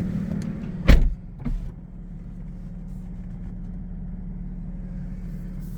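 A car door thuds shut about a second in, after which the BMW M4's idling engine goes on as a steady low hum, quieter than before the thud.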